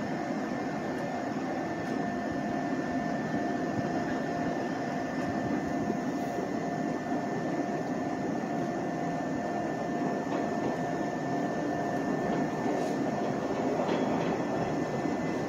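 Izuhakone Railway Sunzu Line electric train running, a steady rumble with a constant whine through it and no separate knocks or clicks.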